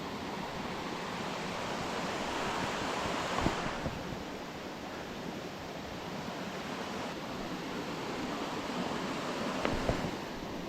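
Steady rushing of a tall waterfall falling on rocks, with two brief bumps, one about three seconds in and one near the end.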